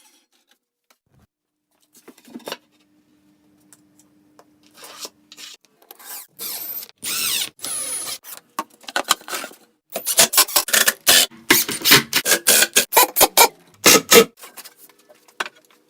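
Rasping, rubbing strokes on wood, in short separate runs with pauses between them. The strokes turn into a fast, steady run for several seconds near the end.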